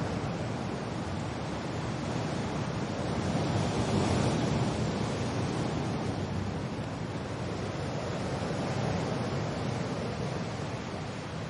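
Steady rush of wind and rain, swelling briefly about four seconds in.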